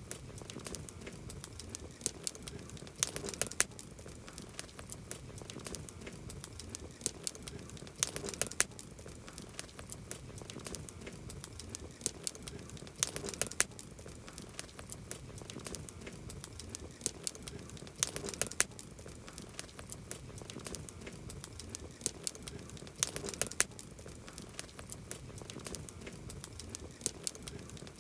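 Campfire crackling: a steady run of sharp crackles and pops over a low hiss, with a cluster of louder pops about every five seconds.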